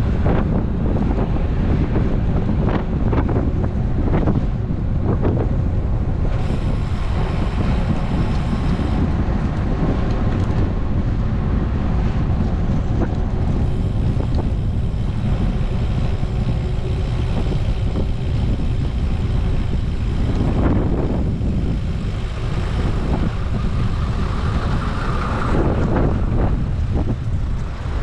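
Wind buffeting an action camera's microphone on a moving road bike, a heavy low rumble, with road traffic around it; a vehicle passes about twenty seconds in.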